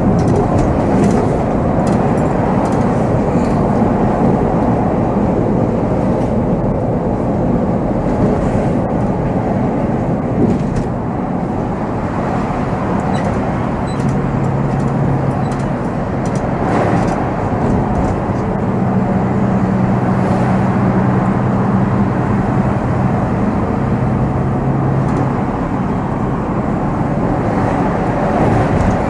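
Volvo B7R coach's diesel engine running on the move, heard from the driver's seat with a steady low road rumble. A steadier engine hum comes through in stretches around the middle, and light clicks and rattles sound now and then.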